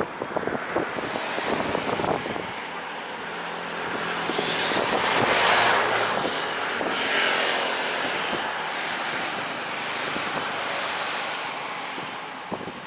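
Garuda Indonesia jet airliner passing low on its landing approach. Its engine noise builds to a peak about five to six seconds in, with a falling pitch shift as it passes, then fades away.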